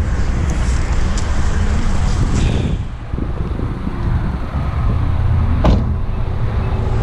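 2020 Mazda MX-5 Miata's four-cylinder engine idling with a steady low rumble, with a few light clicks early on and one sharp knock a little before the end, as of a car door being shut.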